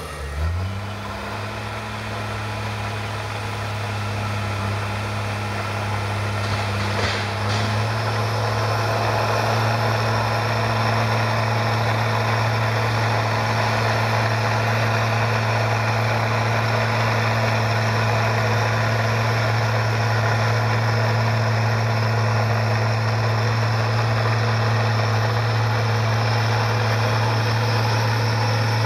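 Komatsu crawler bulldozer's diesel engine running steadily, building up in loudness over the first several seconds and then holding, with a brief higher-pitched sound about seven seconds in.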